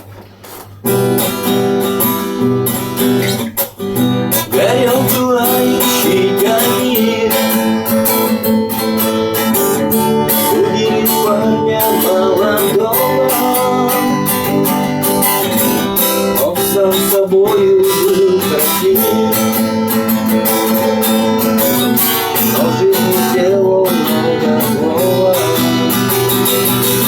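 Instrumental introduction of a Russian blatnoy chanson song: strummed acoustic guitar with a wavering melody line over it, starting about a second in.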